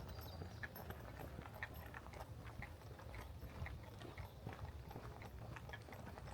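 Footsteps on a walking trail at a steady pace, about two steps a second, each a short crunch.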